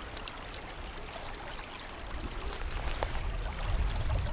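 Riverside ambience: a steady rush of flowing river water, with a low rumble that builds from about halfway through.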